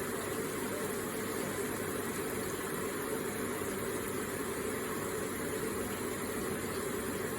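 Electric water feature running: water falling and splashing gently in a steady, unchanging wash.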